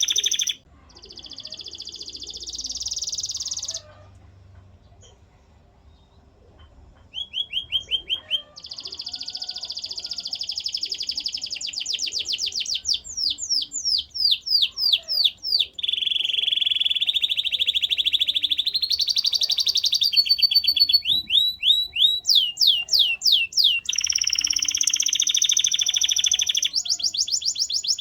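Canary singing: rapid high trills and rolls alternating with quick runs of repeated sweeping notes, several a second. The song breaks off briefly a few seconds in, then runs on in changing tours.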